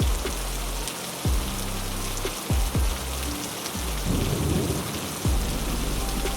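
Heavy rain falling steadily, with a low rumble of thunder about four seconds in. Several deep thuds, each dropping quickly in pitch, come at uneven intervals.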